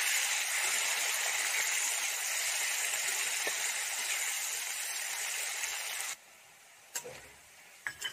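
Sliced onion and whole spices frying in hot oil in a kadhai, a steady sizzling hiss that cuts off suddenly about six seconds in. Two short clicks follow near the end.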